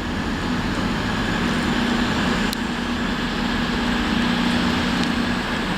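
Class 220 Voyager diesel multiple unit's underfloor diesel engines running with a steady low drone as the train departs.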